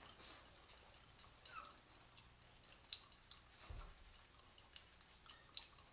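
Near silence with faint scattered clicks and small mouth sounds: a dog chewing and licking treats.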